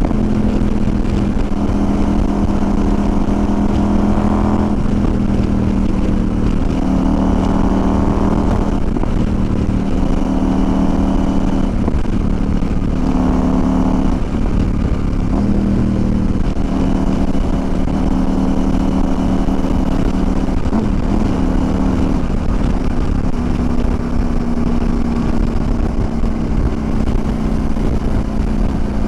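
CFMOTO Ibex 800 parallel-twin motorcycle engine running while riding, its note shifting in pitch several times as the throttle and gears change, over a steady rush of wind.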